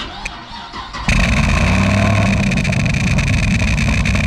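Chevrolet Caprice PPV engine cranking, catching about a second in, then running loud and steady with a duck call taped into its exhaust pipe.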